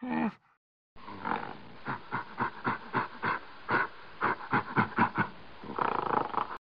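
A brief low camel grunt at the very start, then, after a short gap, gorilla grunting in a rapid rhythmic series of about four grunts a second, running into a longer call near the end.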